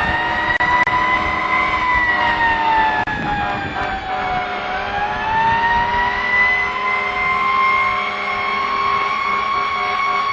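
Fire truck siren wailing slowly: its pitch rises, dips low near the middle, then climbs again and holds high. Underneath runs the steady noise of the ladder truck driving.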